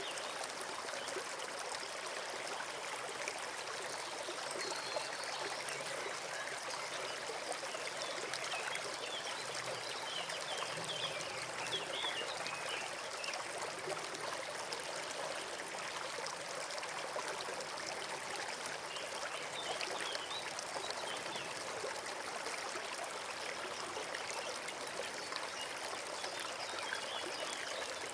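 Small forest stream trickling and babbling steadily over stones, with a few faint high chirps around the middle.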